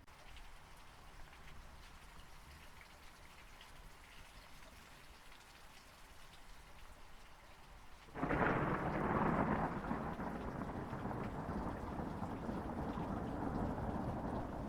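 Steady rain falling, then about eight seconds in a sudden loud thunderclap that goes on rumbling over the rain.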